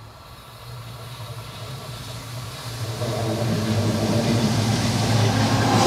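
Diesel freight locomotive approaching along the track, its engine hum growing steadily louder.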